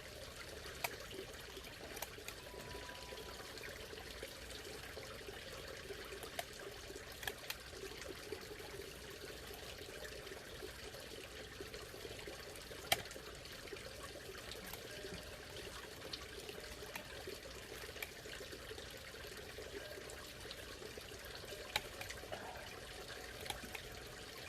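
Backyard pond water trickling and bubbling steadily, with a scattering of short sharp clicks and knocks, the loudest about halfway through.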